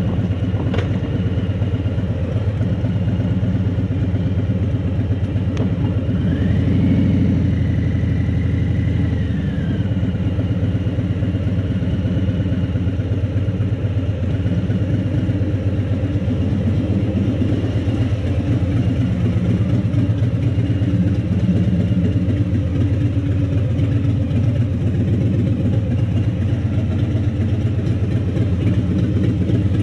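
Motorcycle engine running at low speed with a steady, rapid firing pulse. About six seconds in, a high tone rises, holds for a few seconds and falls away.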